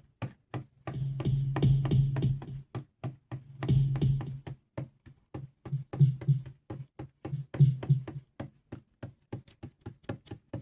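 A programmed drum beat with a low bass line playing back from music production software. After about eight seconds the bass drops out, leaving only rapid clicking percussion.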